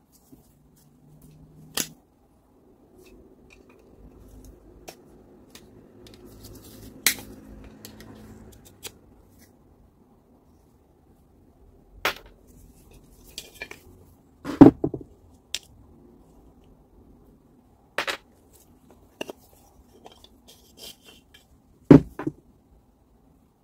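Grinder parts and hand tools handled on a workbench: scattered sharp knocks and clicks, the loudest a few seconds past the middle and another near the end, with a stretch of light rubbing and scraping early on.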